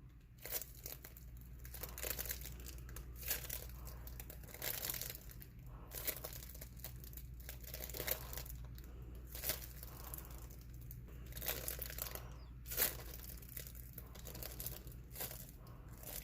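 Hands squeezing and poking a homemade squishy toy, making irregular soft crinkling and rustling noises close to the microphone, over a steady low hum.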